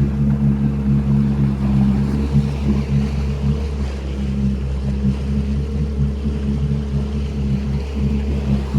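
Jet ski engine running steadily at low speed, a constant hum over water wash.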